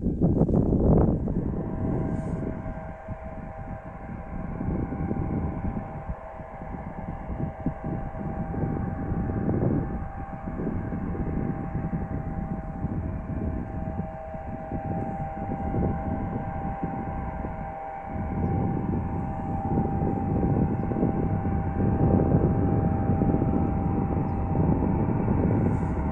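Jet airliner's turbofan engines running: a steady high whine over a rumble that swells and eases, the whine setting in about a second or two in.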